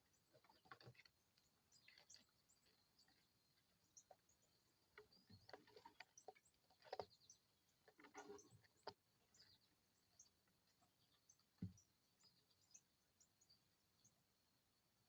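Faint short bird chirps mixed with scattered light clicks and taps, coming irregularly.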